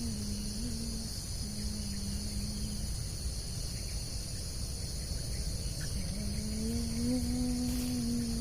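Steady shrill chorus of crickets and other insects. A low, slightly wavering hum sounds over it, stopping about three seconds in and coming back about six seconds in.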